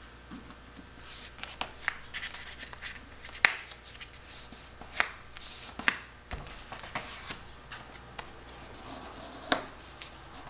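A large sheet of printing paper being folded and creased by hand: soft rustling with a few sharp crackles as the fold is pressed down.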